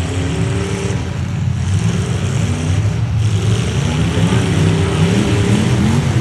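Several demolition derby trucks' engines running and revving at once, their pitches wavering up and down, getting a little louder toward the end.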